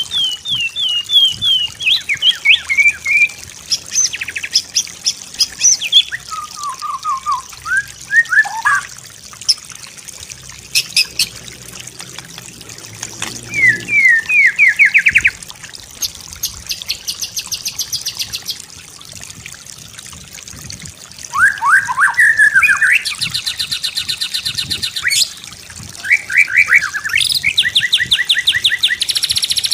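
White-rumped shama (murai batu) singing a varied song: quick runs of repeated sweeping notes and slurred phrases with short pauses, turning into fast rattling trills in the last few seconds.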